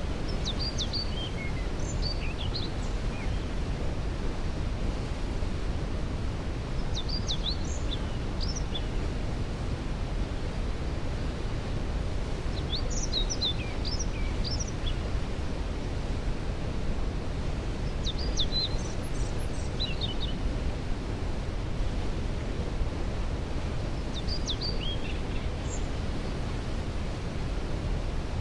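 Steady rushing of a waterfall. A songbird sings a short, high phrase over it about every five to six seconds, six times in all.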